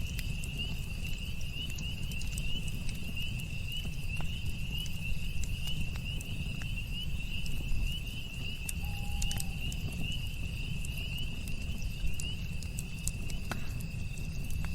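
Campfire crackling with scattered sharp pops over a steady low rumble, with a continuous high, even trilling of insects throughout. A brief faint note sounds about nine seconds in.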